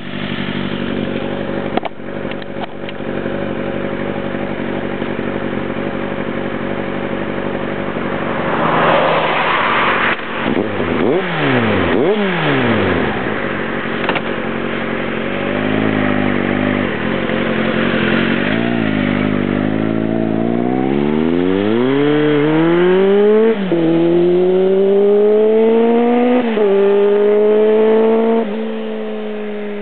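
Kawasaki ZR-7's air-cooled inline-four running through a Jardine aftermarket exhaust. It idles steadily, is revved twice quickly about ten seconds in, then pulls away and accelerates, its pitch climbing and dropping sharply at three upshifts in the last third.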